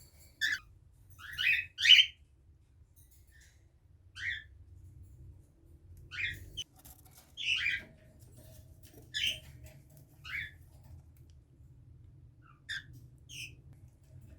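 Baby cockatiel chick, about three weeks old, giving about a dozen short, harsh calls at irregular intervals, the loudest about two seconds in.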